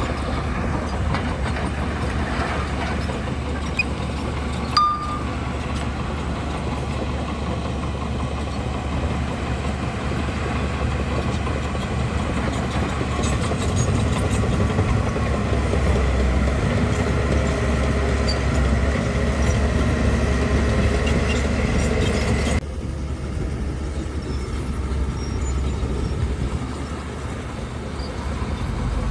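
Bulldozer's diesel engine running steadily under working load, with a single knock about five seconds in. The sound drops abruptly to a quieter, otherwise similar engine noise about three-quarters of the way through.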